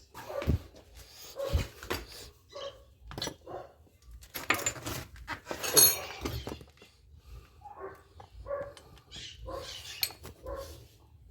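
A dog barking repeatedly in short, irregular barks, with sharp metallic clinks of tools and parts about halfway through.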